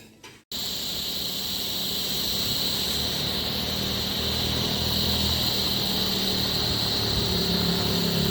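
Motorcycle engine running while riding, with steady road and wind noise and a high steady hiss. It starts suddenly about half a second in and grows slowly louder.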